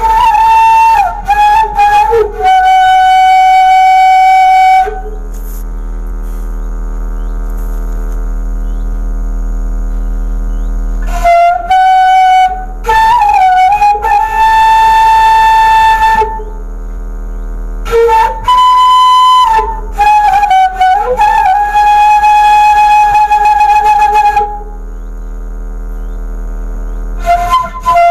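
Bamboo suling flute played by a beginner in four short phrases of mostly long held notes, with pauses of a few seconds between them. A steady low hum runs underneath throughout.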